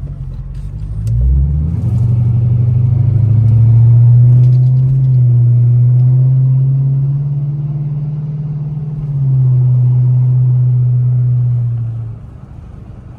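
Chrysler 300's Hemi V8 pulling under throttle, a deep steady drone that rises about a second in, holds, and falls away near the end as the throttle is lifted.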